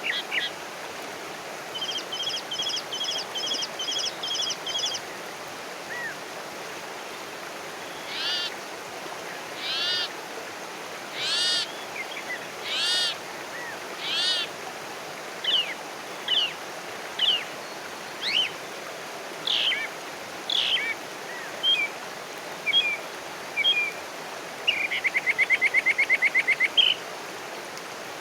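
Wild birds singing and calling over a steady background hiss. A quick run of repeated notes comes about two seconds in, a series of arching notes around the middle, then scattered short chirps and a fast rattling trill near the end.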